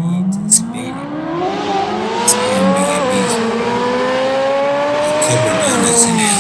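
C8 Corvette Z06's flat-plane-crank V8, with an aftermarket exhaust meant to sound like a Ferrari V12, accelerating hard. The pitch climbs steeply, drops at an upshift about three seconds in and climbs again, then drops at another shift near the end and holds steady.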